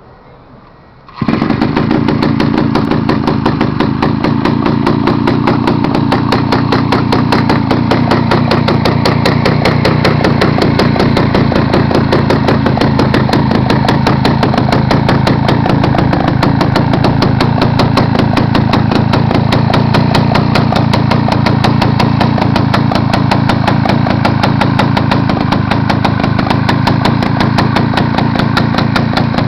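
A mini bike's Tecumseh single-cylinder small engine catches about a second in and then runs at a steady speed with a rapid, even firing beat.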